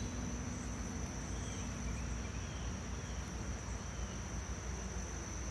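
A steady high-pitched insect trill, like a cricket's, over a low hum from the open honeybee hive, with a few faint bird chirps.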